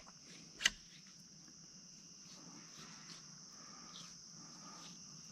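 Steady high-pitched insect chorus trilling without a break, with one sharp click less than a second in and a few faint ticks after it.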